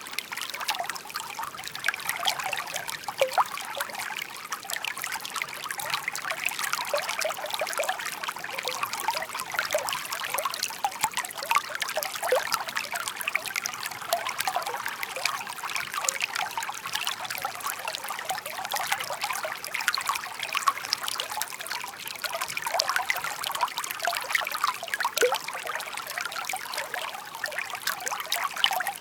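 Shallow brook babbling and trickling steadily over stones, with many small quick splashes and gurgles.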